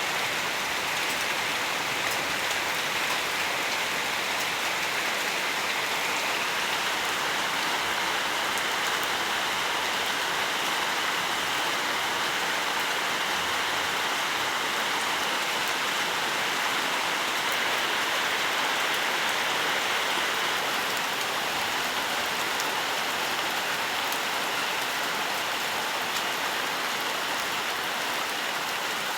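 Steady rainfall on leaves and the ground, a constant hiss with many fine drop patters.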